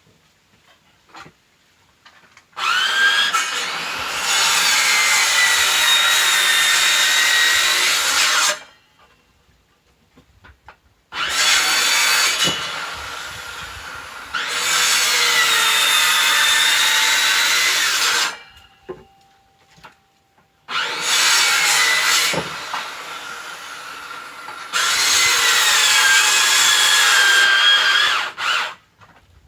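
Electric power tool working firewood logs in three spells of several seconds each, stopping in between; its motor whine sags and recovers in pitch as it bites into the wood under load.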